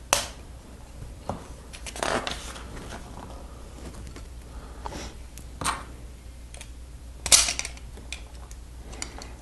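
Lego plastic pieces clicking and clacking as they are handled and pressed together: a sharp click right at the start, a short rustle about two seconds in, a few lighter clicks, and the loudest clack about seven seconds in.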